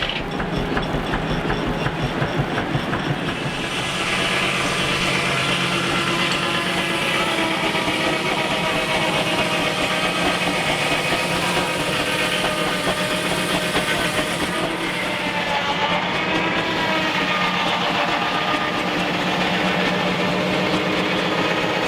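Steam traction engine running steadily, a continuous mechanical working sound.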